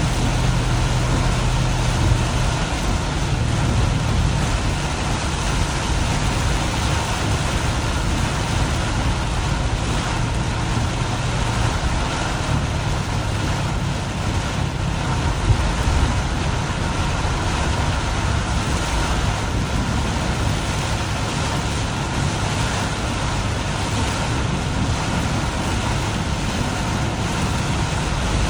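Car traffic in heavy rain: a steady rush of rain and tyres on a wet road, with a low engine hum.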